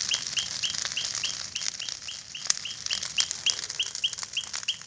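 Bonfire of pruned branches crackling with scattered sharp pops, under an even series of short high chirps, about three a second, from an animal calling. A steady high hiss runs beneath.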